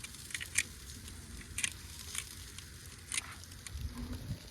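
Fire burning under a grill used for smoking meat, crackling with scattered sharp, irregular pops over a low steady rumble.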